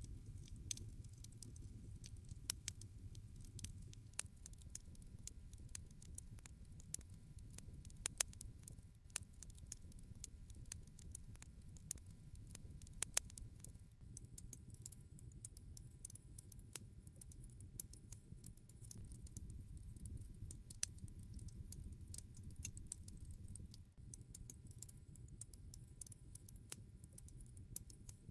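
Wood campfire burning, quietly crackling with irregular pops and snaps over a low steady rumble. Two louder pops come about eight and thirteen seconds in.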